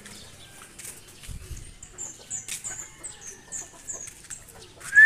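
Faint outdoor yard sound with a run of about six short, high chirps from a small bird through the middle. Right at the end a loud, clear whistled note starts, rising and then held.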